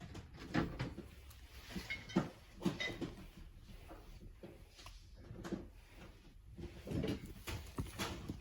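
Irregular clacks and knocks of objects being handled and moved, about a dozen over the stretch, with a busier cluster near the end.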